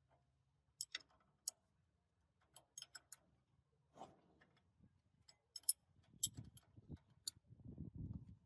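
Irregular sharp clicks and taps of tools or small metal parts being handled, then low rubbing or scraping noises for the last two seconds or so.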